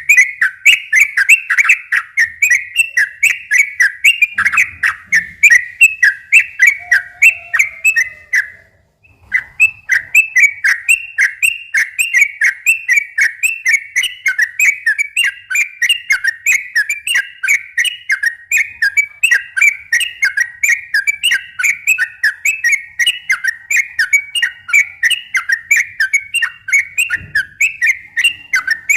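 Yellow-vented bulbul (trucukan) singing a long, fast run of repeated chirping notes, about three a second. It breaks off briefly about eight and a half seconds in, then carries on.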